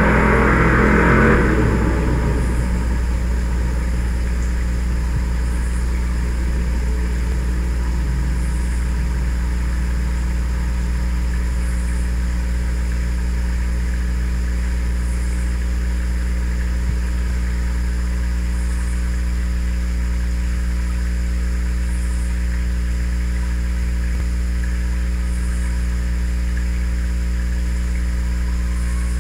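A loud truck moving away, its noise fading out over the first two seconds, followed by a steady low hum.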